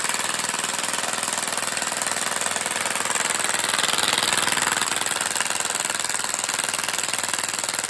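Impact wrench hammering steadily on a tight bolt, a rapid continuous rattle.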